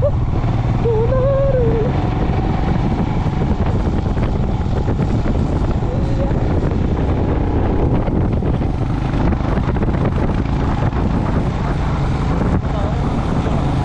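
Steady engine and road noise of a motorcycle on the move, with wind buffeting the microphone.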